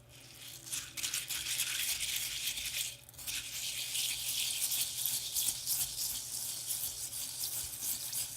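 Plastic vase filler beads being stirred in liquid slime activator in a bowl: a continuous scratchy rattle with a short pause about three seconds in, cutting off suddenly at the end.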